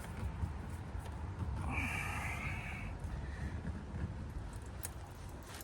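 A person's loud breath or snort, a hissy exhale lasting about a second starting roughly a second and a half in, over a steady low rumble.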